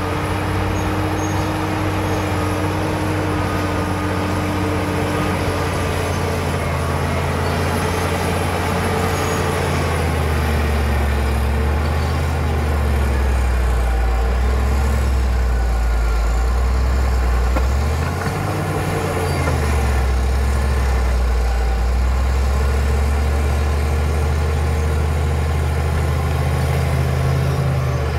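Caterpillar D7 bulldozer's diesel engine running steadily. Its note drops to a lower pitch about ten seconds in, swells up and back down briefly around two-thirds of the way through, then settles again, with a faint high whine above it.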